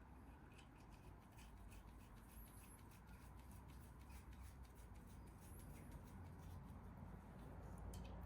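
Near silence: a low steady hum with many faint small clicks and ticks, and a few faint high chirps.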